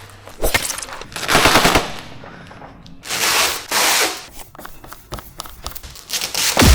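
Vinyl wrap film crackling in several loud bursts as it is pulled and stretched, with lighter crinkles in between, then a heavy thump at the end.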